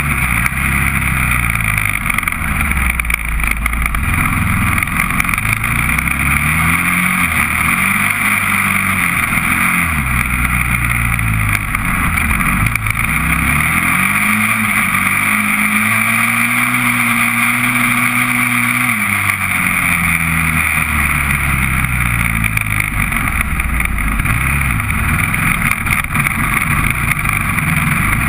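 Honda TRX400EX quad's single-cylinder four-stroke engine revving hard, pitch climbing and dropping again and again as it accelerates through the gears and backs off. About halfway through it holds at high revs for several seconds before falling away.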